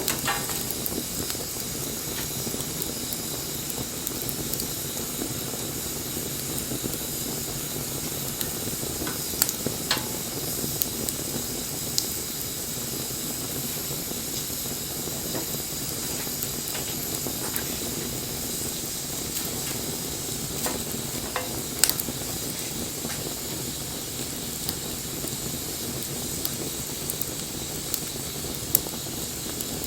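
Wood fire burning with a steady hiss and crackle, broken by a few sharp pops, the loudest about two-thirds of the way through.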